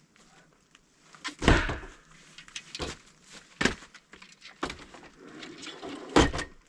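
About five separate thumps and knocks, with rustling and handling noise between them, as camping gear is handled and packed away. The loudest knocks come about a second and a half in and near the end.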